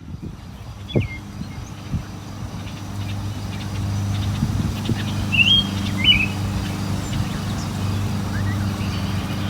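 Birds chirping: a few short, high chirps about a second in and a couple more around the middle, over a steady low hum that fades in over the first few seconds.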